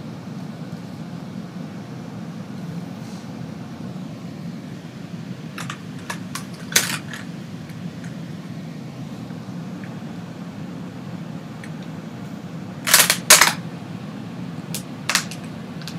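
Steady low rumble of a moving GO commuter train heard from inside the passenger car. A cluster of sharp clicks comes a little before halfway, then two louder knocks and one more click near the end.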